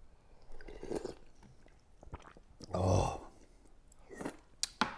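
A man chewing food close to the microphone, with wet mouth clicks and smacks. A short, low vocal sound comes about three seconds in.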